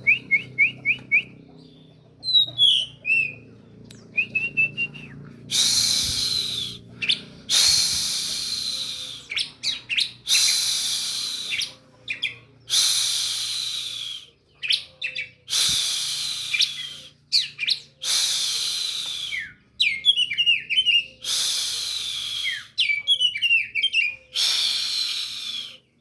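A bird singing: runs of short, high chirps alternating with repeated harsh, hissing notes about a second long.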